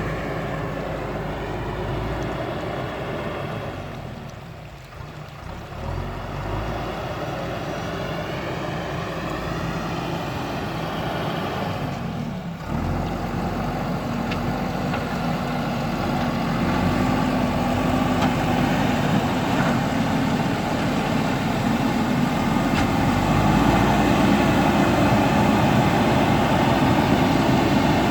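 Diesel engine of a JCB backhoe loader running as the machine works, with a brief drop in level about four to five seconds in, then growing louder over the second half.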